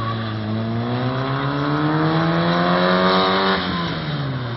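Fiat 126p engine accelerating hard, its pitch rising steadily for about three and a half seconds, then dropping quickly near the end as the throttle is lifted.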